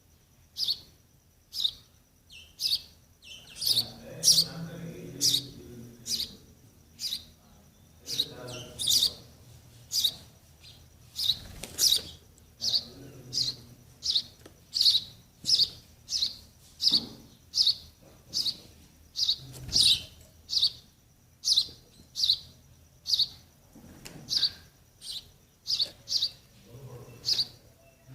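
Sparrow chicks chirping over and over, short sharp high chirps about one and a half a second, the begging calls of nestlings waiting to be fed.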